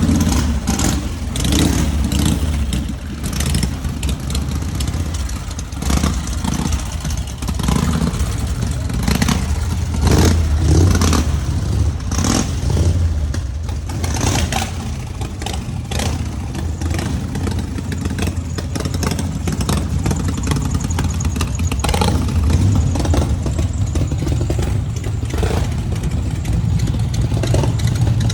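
Classic Harley-Davidson V-twin motorcycle engine running with a steady low rumble. Its loudness swells and eases now and then, and frequent sharp clicks sound over it.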